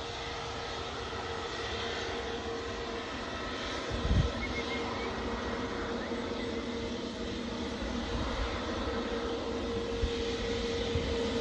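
Jet airliner engines: a steady rushing noise with a held whine, growing a little louder in the second half, and a brief low thump about four seconds in.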